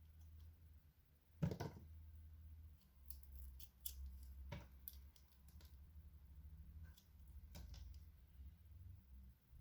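A knife cutting and carving a bar of soap: one loud, crisp crunch about a second and a half in, then a run of quieter short clicks and scrapes.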